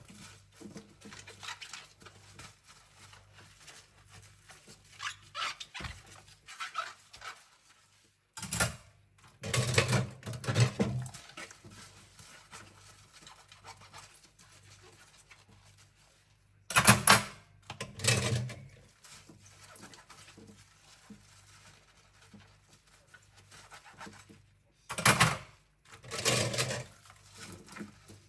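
Cutlery being washed by hand at a sink: several short, loud scrubbing and splashing bursts of a second or two, with quieter rubbing and light clinks between them over a faint low steady hum.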